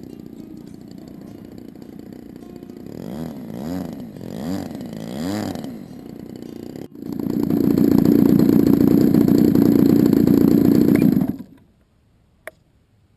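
DLE 20cc two-stroke gas engine on a model airplane idling, then revved up and down three times. After a short break it runs loud and steady for about four seconds, then cuts off suddenly, followed by a single click.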